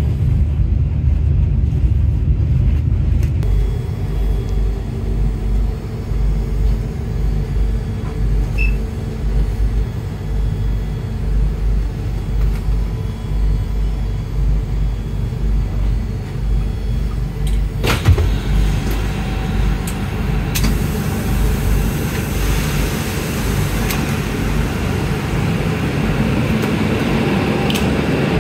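Steady low rumble of an Endeavour-class diesel railcar heard from inside the carriage. About eighteen seconds in there is a single sharp clunk, after which a brighter hiss joins the rumble.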